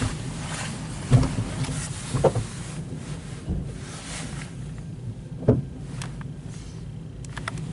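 Intermodal freight train's cars rolling slowly past: a steady low rumble of wheels on rail, with a few short clanks, about three of them.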